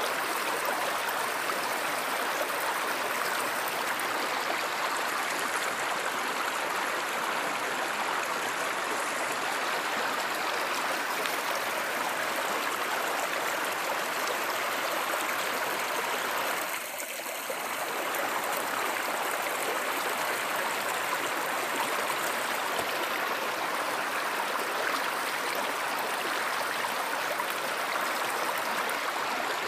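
Stream water running steadily over rocks, with a brief dip in level a little over halfway through.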